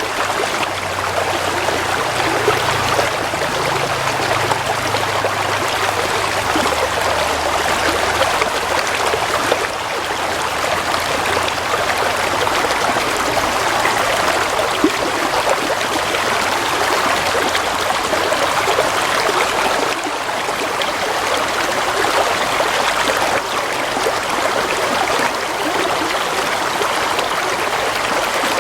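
Gently flowing stream water, a steady, unbroken trickling and babbling.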